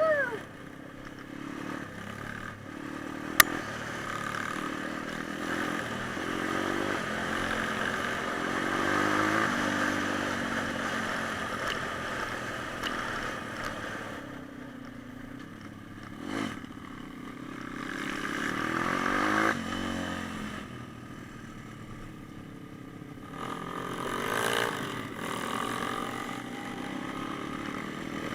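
Pit bike engine being ridden, its revs rising and falling several times as the throttle opens and closes, with a sharp click a few seconds in.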